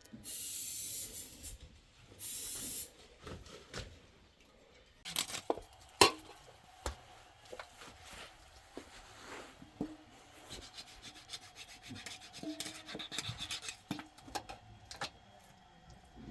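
Two short bursts of scraping, then scattered knocks and clatter from hand work, with one sharp knock about six seconds in.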